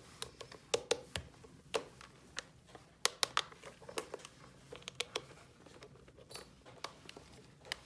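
Light, irregular clicks and taps, a few a second, of small toy pieces being handled and set down.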